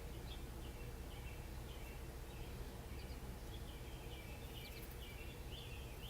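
Small birds chirping in short, repeated high notes over a steady low background rumble.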